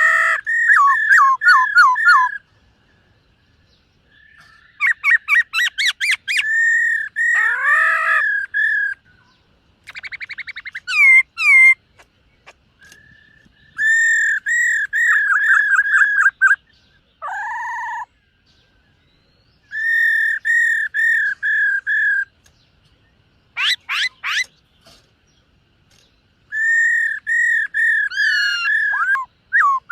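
Black-throated laughingthrush (khướu bạc má) singing: loud phrases of rapid repeated whistled notes, each phrase about two seconds long, with short pauses between them.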